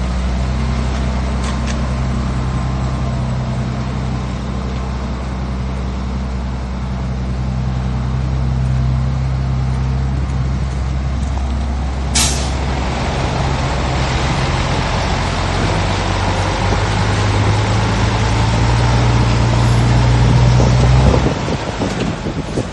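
Heavy diesel machinery running steadily, with a short, sharp hiss of air from a dump truck's air brakes about twelve seconds in. The engine gets louder and then drops off suddenly near the end.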